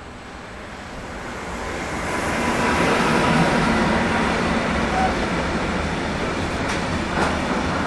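A train approaching and passing: its rumble grows louder over the first three seconds and then holds steady, with a few sharp clicks near the end.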